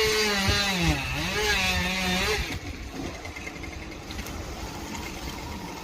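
Chainsaw engine revving: its pitch dips about a second in and climbs back. About two and a half seconds in it drops away to a quieter, lower running sound.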